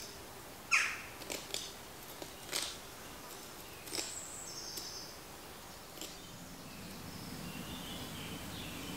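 Songbirds singing, with a handful of sharp clicks and knocks over the first six seconds and a low steady hum coming in about two-thirds of the way through.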